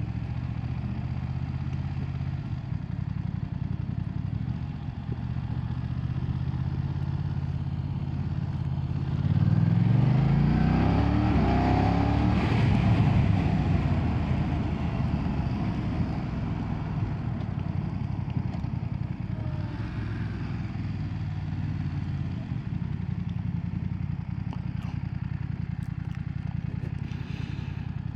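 BMW F900R's 895cc parallel-twin engine running steadily under way, then revving up about nine seconds in as the bike accelerates. It is louder for a few seconds, then settles back to steady cruising.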